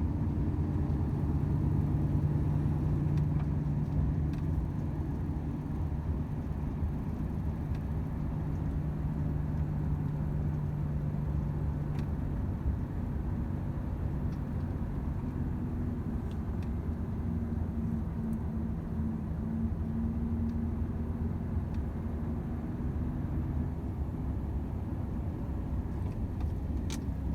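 Volvo FH 500 truck under way: the 13-litre straight-six diesel drones steadily over road and tyre noise. The engine note shifts about halfway through.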